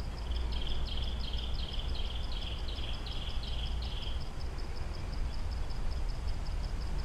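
Outdoor insect chorus: a steady high, pulsing chirp about six times a second, joined from about half a second to four seconds in by a second repeated buzzy call of about three notes a second, over a low rumble of ambient noise.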